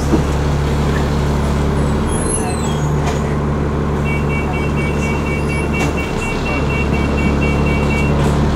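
Alexander Dennis ALX400 double-decker bus's diesel engine running steadily, heard from on board. About four seconds in, a rapid high beeping starts and lasts about four seconds.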